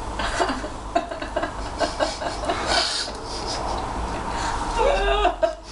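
Indistinct voices with light clicks and knocks; a voice is clearest about five seconds in.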